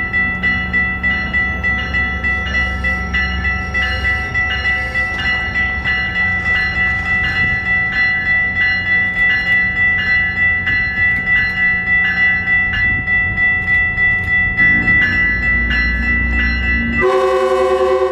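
A railroad bell ringing steadily, about two strikes a second, over the low rumble of a train. Near the end a train horn sounds for about a second, a chord of several notes.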